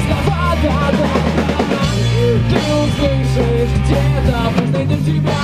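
Rock music: a full band with a drum kit keeping a steady beat, bass and electric guitar.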